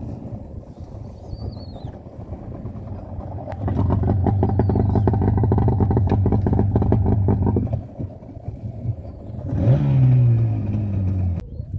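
A small boat motor running loud and steady for about four seconds, then easing off. It rises again near the end, falls in pitch and cuts off abruptly.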